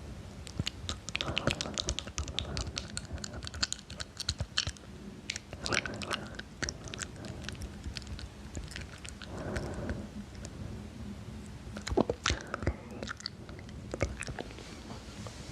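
ASMR mouth sounds close to the microphone: irregular wet clicks and smacks of lips and tongue, with a few softer breathy patches.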